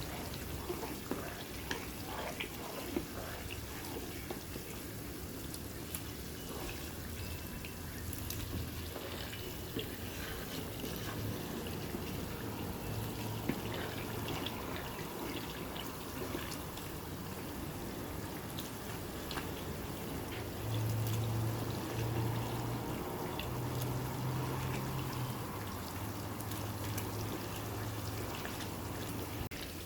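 Chili garlic oil cooking in a pan: a steady sizzle of hot oil with scattered small clicks and ticks.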